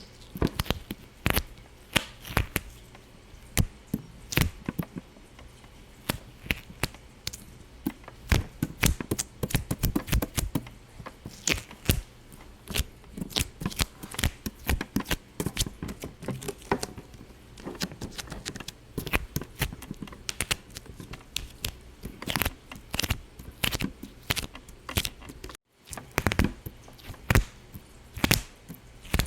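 Irregular sharp little pops and clicks, several a second, going on without a break except for a short silent gap near the end.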